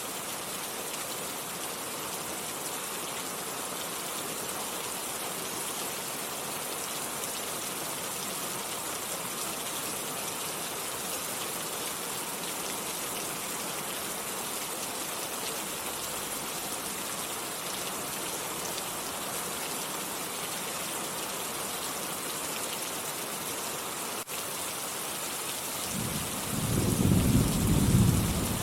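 Steady, heavy rain falling. About 26 seconds in, a low rumble of thunder rolls in and becomes the loudest sound.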